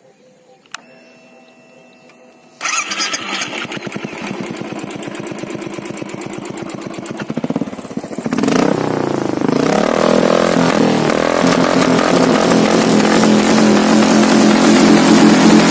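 Royal Enfield Thunderbird 500X's single-cylinder engine starting. A click and a faint hum come first, then the engine fires about two and a half seconds in and idles with an even thump. From about eight seconds it runs louder and stays up.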